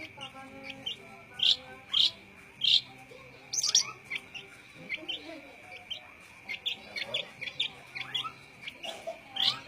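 Young long-tailed shrike calling in a series of short, sharp chirps. The loudest come in the first four seconds, and quicker, quieter chirps follow. A steady high tone runs underneath.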